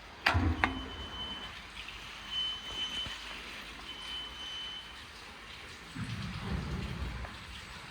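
WashTec SoftCare² rollover car wash at work: a steady hiss of water spray, two sharp knocks near the start, and a thin high tone three times. A low mechanical rumble comes in about six seconds in.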